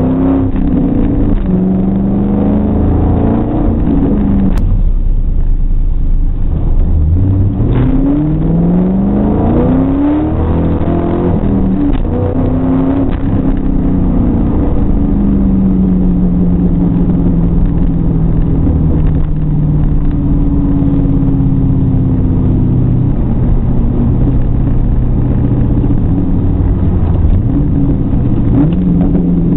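1999 Ford Mustang GT's 4.6-litre V8 heard from inside the cabin, pulling hard with its pitch climbing several times, with drops between. It then runs on with the pitch slowly sinking, and picks up again near the end.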